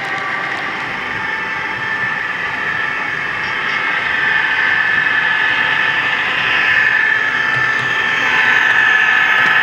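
HO scale model train running on the layout: a steady mechanical whine with a constant rolling hiss that grows somewhat louder over the stretch.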